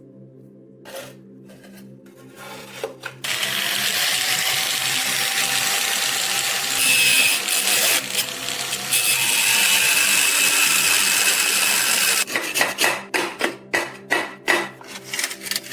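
Electric power tool grinding against the work in one long run of about nine seconds, with a faint motor whine under the noise, then a series of short quick passes near the end. Quiet background music continues underneath.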